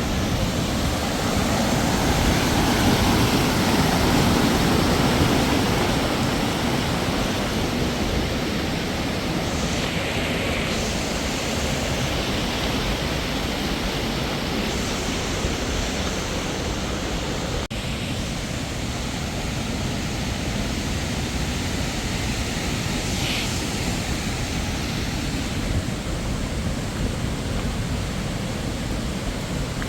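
Steady rushing of a waterfall, a continuous roar of falling water, a little louder in the first few seconds.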